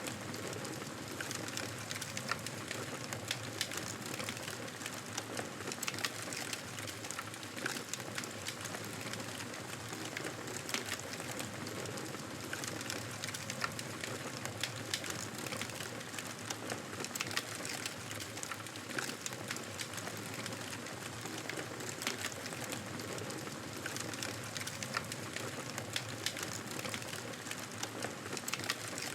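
Wood campfire burning steadily, with a constant hiss and many irregular small crackles and pops.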